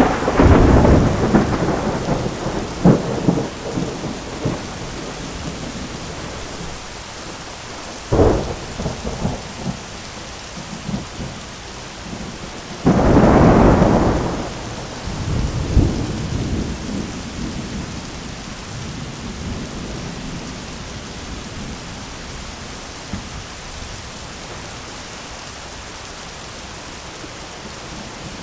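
Thunderstorm: steady heavy rain hissing throughout, with rolling thunder at the start, a sharper clap about 8 seconds in, and a loud rumble about 13 seconds in that dies away over a few seconds.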